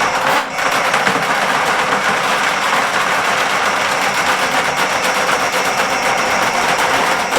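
Electric drain snake running, its motor and spinning cable making a steady, rapid clatter, with a brief dip about half a second in.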